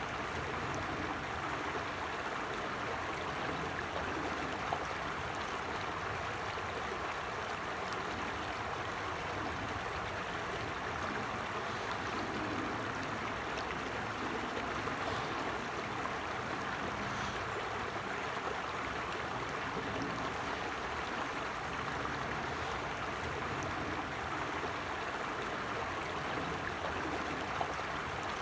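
A creek flowing steadily, an even, continuous rush of running water.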